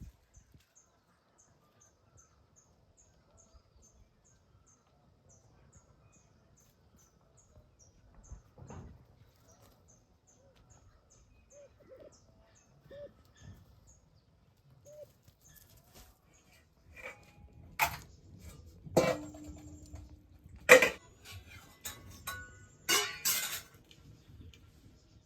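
A small bird repeats a short, faint high chirp about twice a second. Later, metal pots and utensils are handled with a clatter and several sharp knocks, the loudest a little past the middle.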